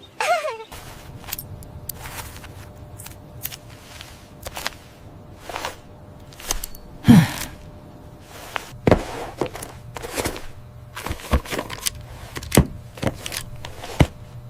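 An irregular series of sharp knocks and thuds, over a faint steady low hum.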